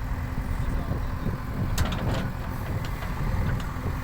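JCB backhoe loader's diesel engine running steadily, with a few sharp knocks over it, the loudest about two seconds in.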